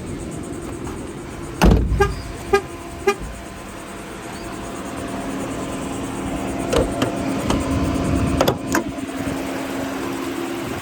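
A van's hood being released and opened: a heavy clunk about two seconds in, followed by three short beeping pips about half a second apart. A steady low hum then sets in halfway through, with a few clicks and knocks over it.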